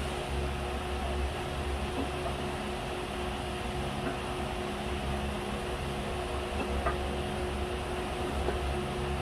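Steady machine hum with a constant tone, a pulsing low rumble and an even hiss, with a few faint clicks.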